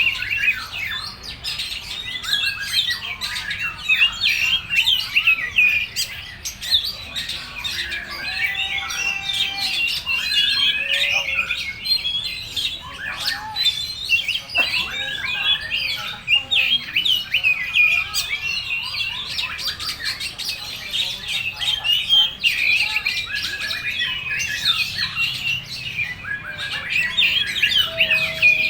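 Oriental magpie-robin (kacer) singing a long, unbroken, rapid song of constantly changing chirps, trills and harsh notes, its full repertoire of learned phrases.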